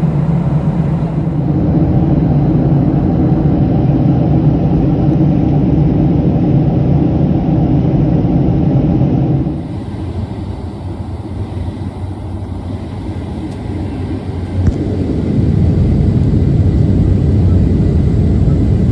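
Cabin noise of a Boeing 737-700 airliner in descent: a steady rumble of engines and airflow. Its level drops suddenly about halfway through and returns about five seconds later with a short click.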